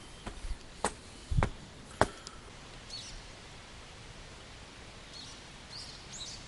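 Three or four sharp knocks in the first two seconds, then short high bird chirps, twice near the end, over a steady outdoor hiss.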